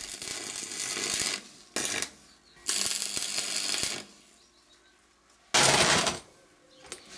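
Stick welder arc crackling and hissing in several short runs with pauses between, the loudest run about five and a half seconds in.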